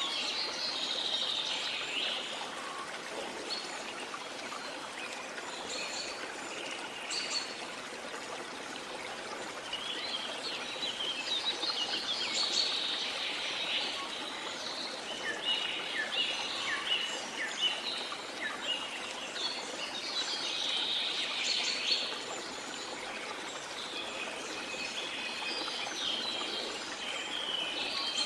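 Many jungle birds chirping and calling over the steady rush of a waterfall.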